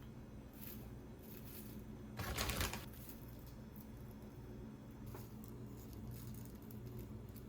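Small handling sounds while cooking: scattered light clicks and scrapes over a low steady hum, with one louder noisy burst about two seconds in that lasts about half a second.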